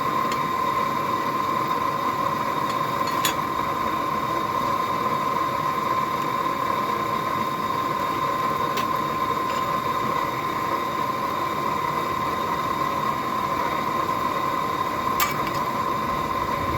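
Blacksmith's forge running steadily while the steel heats: an even rushing noise with a constant whine. A few faint clicks sound over it.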